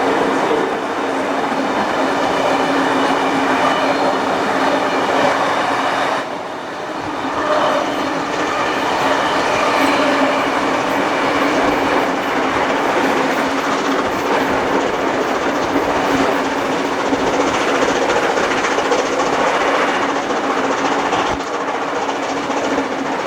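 Heritage passenger train running along the track: the steady rolling noise of carriage wheels on rails, with a low steady hum underneath. The noise briefly drops about six seconds in, then carries on.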